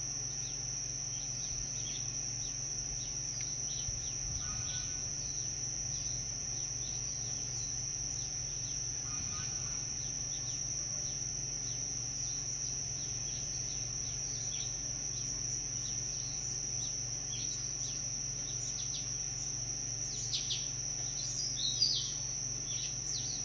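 A steady high-pitched insect chorus of crickets or similar, with short bird chirps scattered throughout. The chirps come more often and louder near the end.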